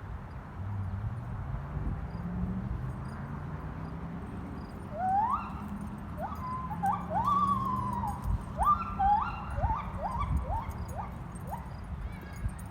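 An animal calling: a run of about a dozen short calls starting about five seconds in, each sweeping sharply up in pitch and then levelling off, coming roughly one or two a second.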